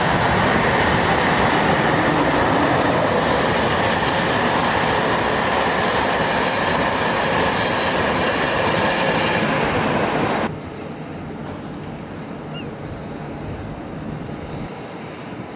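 A train passing close by on the rails: loud steady wheel-on-rail rumble with faint held ringing tones over it. About ten seconds in it stops abruptly, leaving a much quieter steady rumble.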